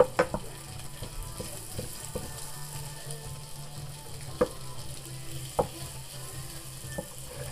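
Floured pigeon breast chunks sizzling gently in butter in a metal frying pan on a low heat as they brown. They are stirred with a wooden spoon that knocks sharply against the pan a few times.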